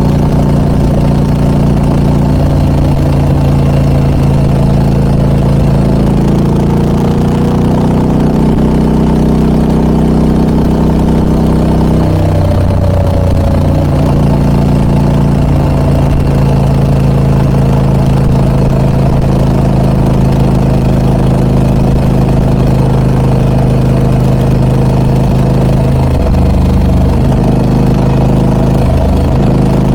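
Harley-Davidson Pan America 1250 Special's V-twin engine, fitted with a Scorpion aftermarket exhaust, running steadily under way. Its note holds mostly even, rising around the first third, dipping briefly a little before the middle and changing again near the end.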